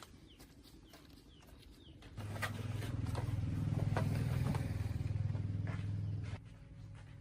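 An engine runs steadily for about four seconds, starting about two seconds in and cutting off abruptly. Faint bird chirps and light clicks sound around it.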